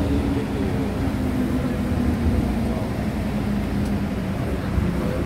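MTR M-Train electric multiple unit running along the line, heard from inside the car: a steady low rumble with a constant hum.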